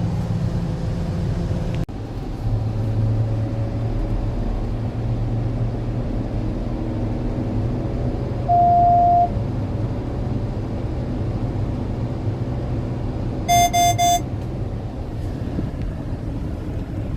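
Maserati Levante GranSport SQ4's twin-turbo V6 running at a steady pace under way, a low even hum. About halfway there is a single short beep, and near the end three quick beeps.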